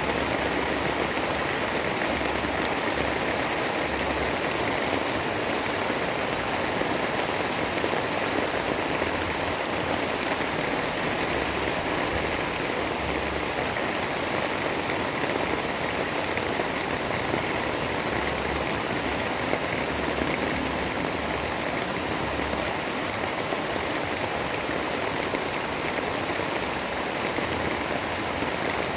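Steady, even rain noise with no let-up, with a few faint ticks of drops.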